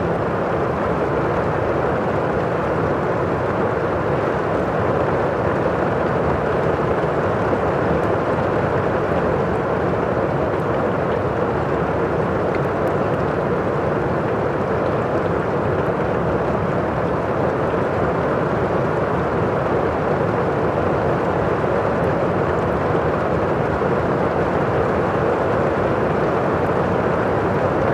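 Steady, even rushing of heavy rain from a thunderstorm ambience, with no distinct thunderclaps.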